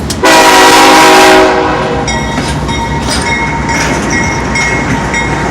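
Union Pacific locomotive's air horn sounds one blast of about a second and a half, a chord of several notes. After it come the rolling train's wheels, clicking over the rail joints.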